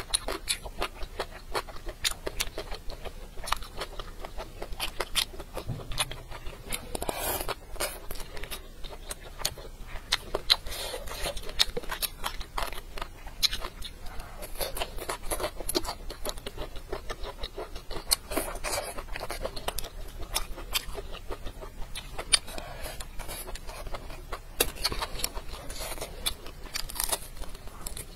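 A person eating close to the microphone: wet chewing, lip smacks and crunching, heard as a dense run of sharp clicks and snaps.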